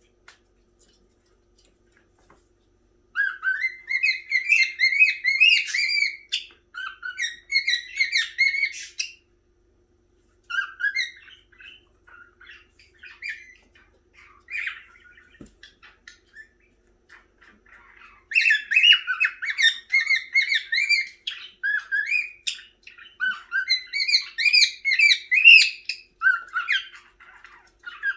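Young cockatiel singing: rapid warbling chirps and whistles in two long bouts, with softer scattered chirps between them.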